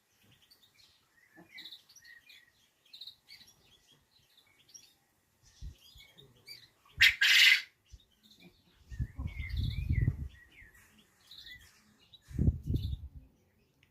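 Small birds chirping in short, scattered calls. About seven seconds in, a loud, short rush of noise, the loudest sound here, and later two low rumbles.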